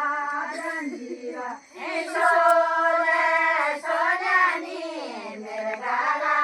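A single high voice singing a folk melody in long held notes that bend in pitch, with a short break about a second and a half in.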